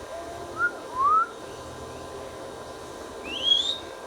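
Ringneck parrot giving three short rising whistles, the last one higher and the loudest.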